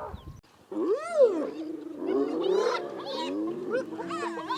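Several spotted hyenas calling over one another in overlapping high, rising and falling cries, after a brief hush just after the start.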